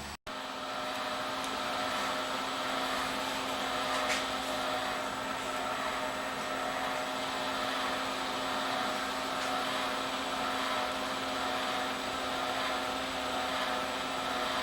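Wire-feed motor of a flux-core wire welder running steadily with a constant hum, pushing new 0.035 flux-core wire through the gun lead toward the tip.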